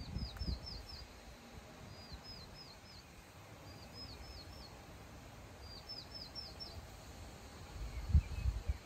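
A small songbird repeating a short phrase of four or five quick, high, down-hooked notes, four times, over wind buffeting the microphone, with gusts near the start and strongest near the end.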